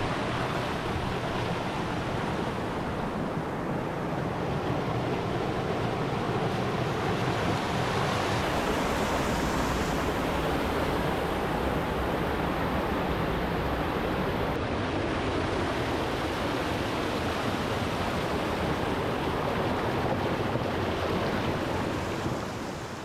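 Creek water rushing steadily over rocks, an even unbroken rush that fades out near the end.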